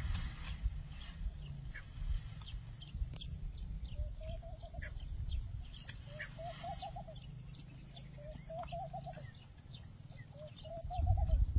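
Birds calling: a low, bubbling call of rapid pulses about four times, roughly every two seconds, among many short, high chirps from small birds, over a low wind rumble on the microphone that swells near the end.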